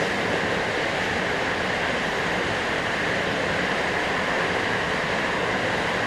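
JR West 321 series electric train running at steady speed, heard from inside the car: an even rushing rumble of wheels on rail and air, with no distinct motor whine or rail-joint clicks.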